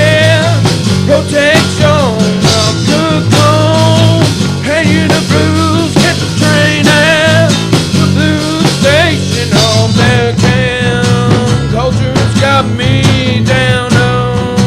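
Rock song playing: a full band with a singer holding long, wavering notes.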